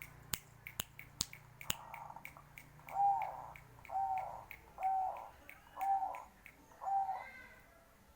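Zebra dove (perkutut bangkok) cooing: five short rounded coos about a second apart, after a run of sharp clicks in the first two seconds.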